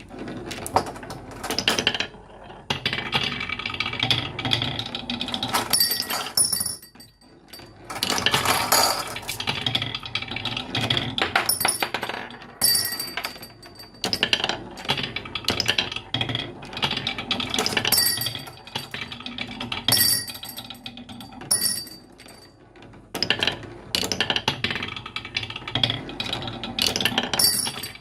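Marbles rolling and clattering down a wooden marble run: a dense stream of clicks and rattles, with brief bright ringing notes every few seconds.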